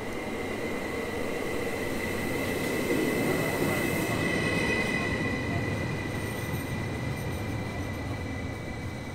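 Electric commuter train (a Stadler FLIRT unit) pulling into an underground station platform: a rumble of wheels on rails under a steady high whine. It is loudest as the cars pass about three to four seconds in, then eases as the train slows.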